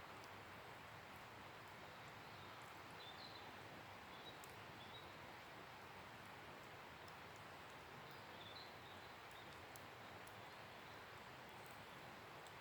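Faint wood campfire burning with occasional soft crackles and pops over a steady outdoor hiss. A bird chirps briefly a few seconds in and again past the middle.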